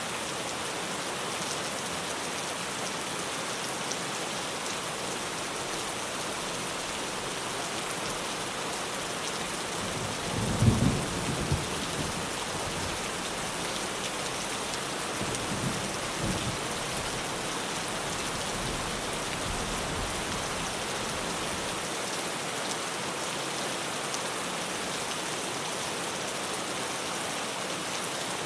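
Steady heavy rain drumming on a tin roof. Thunder rumbles twice, a louder roll about ten seconds in and a fainter one a few seconds later.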